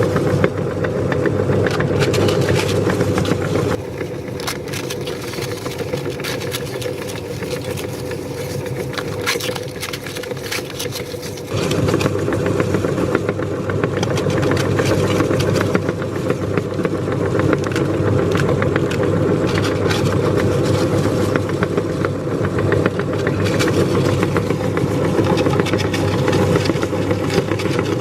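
Electric meat grinder running with a steady motor hum and a constant crackle of clicks from crispy pani puri shells being crushed. It goes quieter about four seconds in and comes back louder about twelve seconds in.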